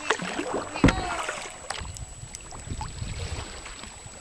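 Kayak being paddled: water splashing and dripping in short irregular strokes, with one loud knock a little under a second in. A low rumble of wind on the microphone runs through the second half.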